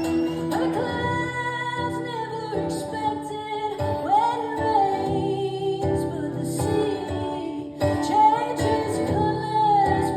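A woman singing with guitar accompaniment, the sung line gliding and holding notes.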